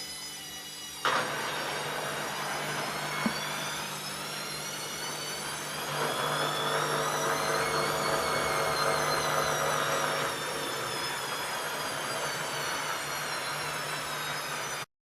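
ELIN A 100 E washing machine running: a click about a second in, then its motor and drum running with a steady hum and a high whine that rises and falls, louder for a few seconds in the middle. It cuts off suddenly near the end.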